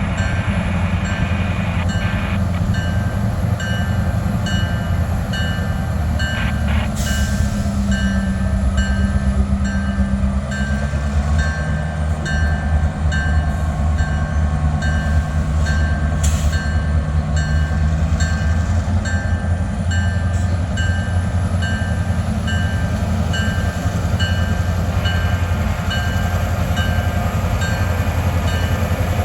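A freight train runs by, its diesel locomotive engines and cars making a loud, steady low rumble. A high ding repeats at an even pace over it.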